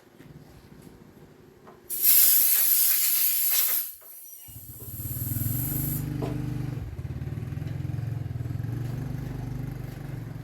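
A loud spraying hiss for about two seconds, followed about four and a half seconds in by the steady low hum of a small motor running.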